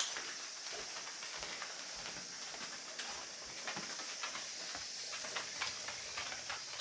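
Summer insects droning steadily at a high pitch, with scattered light taps and clicks.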